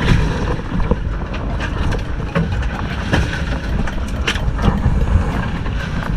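Steady low rumble of a fishing boat at sea, with a few sharp clicks and knocks scattered through it.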